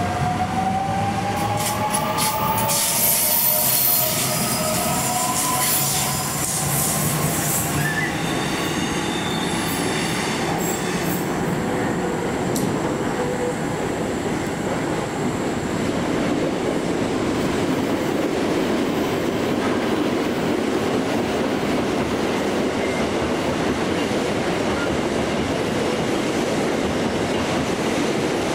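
Sydney Trains electric suburban train accelerating: the traction motors give a whine that rises in pitch over the first few seconds, with high wheel squeals and clicks. It then settles into a steady rolling noise of the train running along the track.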